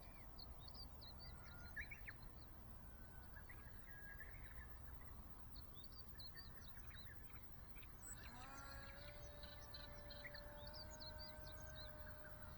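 Birds chirping faintly over a low outdoor rumble. About eight seconds in, the whine of a small RC plane's brushless motor and 3-inch propeller rises in pitch and then holds steady as the throttle is opened.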